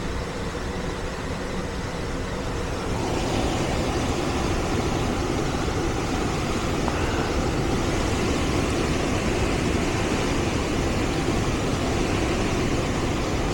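Central air-conditioning system running on a call for cooling. It makes a steady rushing hum that gets louder about three seconds in and then holds.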